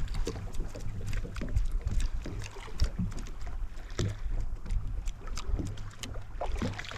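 Sounds aboard a drifting fishing boat: wind on the microphone over a steady low hum, with irregular knocks and clicks.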